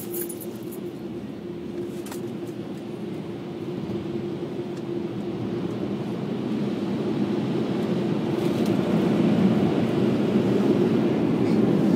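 Automatic car wash air-dryer blowers running, a steady whooshing hum with a low drone, heard from inside the car and growing gradually louder as they pass over it near the end of the wash.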